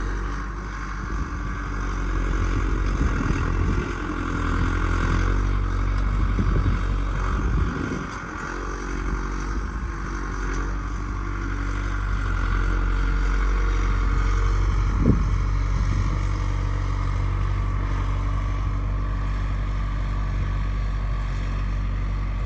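A vehicle engine running steadily for the whole stretch, with small rises and dips in level.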